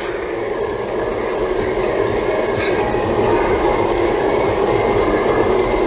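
Steady road noise inside a moving Toyota Tank's cabin: tyre and engine drone on a wet road, gradually getting a little louder.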